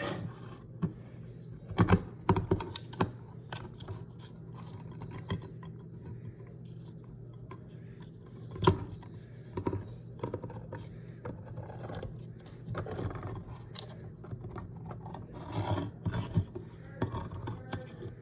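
Manual can opener working around a can lid: irregular clicks, taps and scraping, with a few sharper knocks, over a steady low hum.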